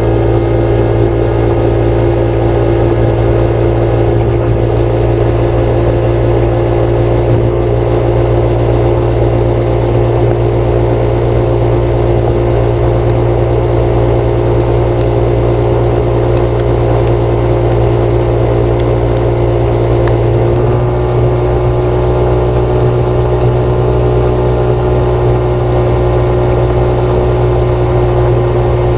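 An engine or motor running steadily with a constant hum, its pitch stepping up slightly about two-thirds of the way through.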